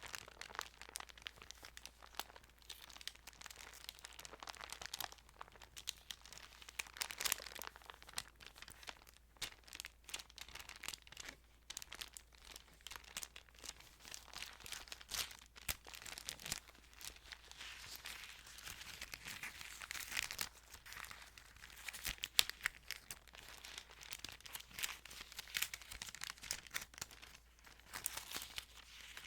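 Thin Bible pages crinkling and rustling as they are handled and turned: a steady run of small, irregular crackles.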